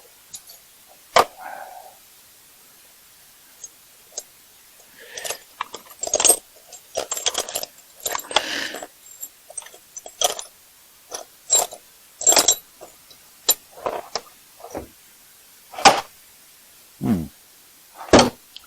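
Metal gear being handled and rummaged through: irregular clinks, clacks and clatters, some ringing briefly.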